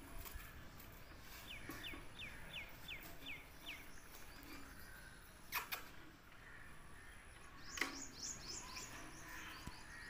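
A small bird chirping in quick runs: about seven short falling chirps early on, and a faster, higher run of about eight near the end. There are two sharp clicks about halfway through.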